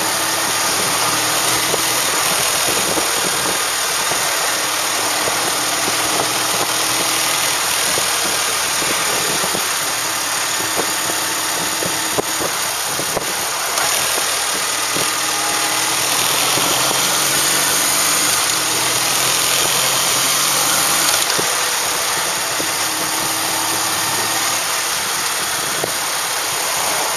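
Kawasaki W650's air-cooled parallel-twin engine running while riding, its pitch rising and falling in spells with throttle and gear changes, under a steady rush of wind on the microphone.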